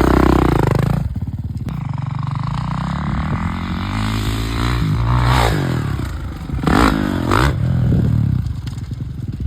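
Dirt bike engine running, loud at first and then quieter after a sudden drop about a second in, with a few quick revs around five and seven seconds in.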